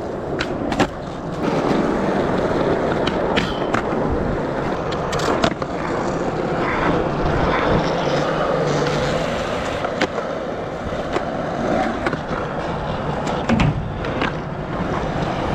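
Skateboard wheels rolling and rumbling continuously, with scattered sharp clacks and knocks of the board.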